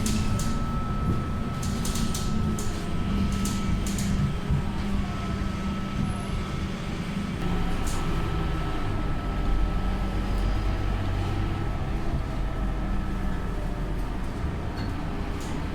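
Scania K230UB city bus running on the move, its engine and ZF Ecomat automatic gearbox droning steadily, with interior fittings clicking and rattling in the first few seconds. A thin steady whine runs through the first two-thirds, and the engine drone deepens from about nine seconds in.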